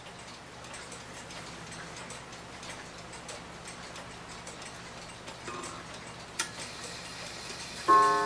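1900s New Haven Clock Co. mantel clock ticking faintly and steadily, then near the end its gong strikes once with a ringing, slowly fading tone, soft in character.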